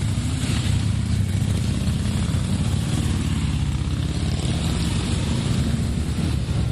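Motorcycle engines running steadily as a parade of motorbikes goes by, a continuous low engine sound with no pauses.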